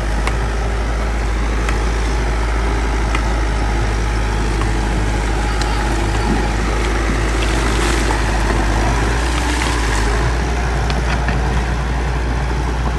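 Bulldozer's diesel engine running steadily under load, with scattered sharp clicks and clanks over the low rumble.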